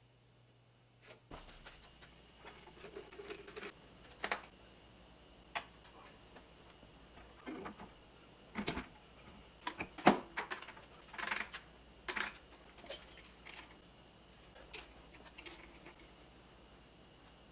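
Irregular metallic clicks, clinks and light knocks of hand tools and parts being handled on the engine, the loudest about ten seconds in.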